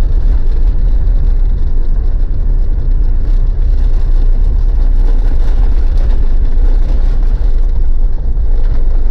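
Mitsubishi Pajero's diesel engine and road noise heard from inside the moving car: a steady, loud low drone.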